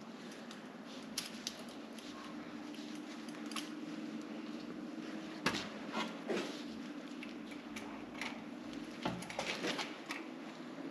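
Scattered light clicks and taps of small parts and hand tools being handled during brake-line work, over a faint steady hum.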